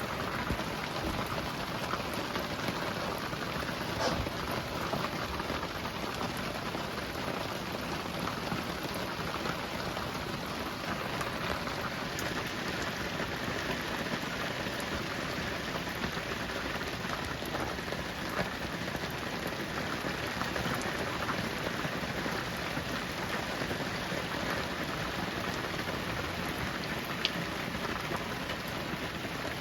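Steady heavy rain falling and pattering on a hard surface, dense and even, with a couple of sharper drop ticks standing out, one early and one near the end.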